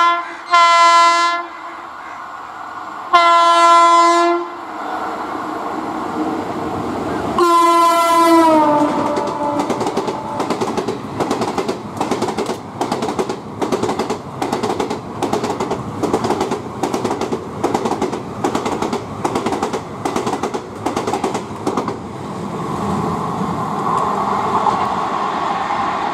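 WAP-5 electric locomotive sounding its horn in three blasts, the third dropping in pitch as the locomotive passes. Then the express coaches' wheels clicking over rail joints in a steady rhythm of about two clicks a second, giving way near the end to a steadier rolling rumble.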